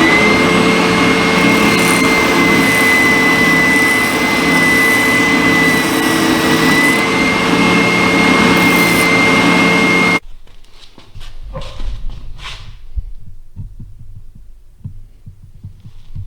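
Power sander running steadily with a high whine while small plywood blocks are smoothed on it; it stops suddenly about ten seconds in, followed by faint knocks of handling.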